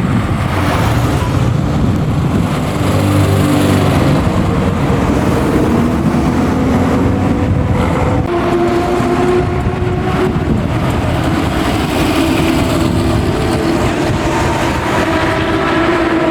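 Classic car engines running and moving. There is a low rumble at first, then a steadier, higher engine note from about halfway through.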